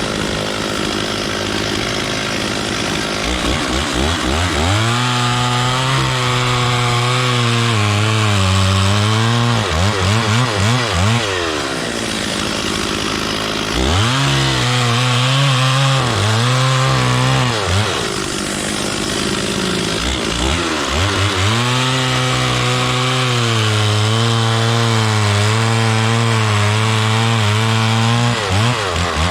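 Stihl 440 two-stroke chainsaw revving up to full speed and sawing wood in three long spells. Between the spells the engine drops back and wavers in pitch before opening up again.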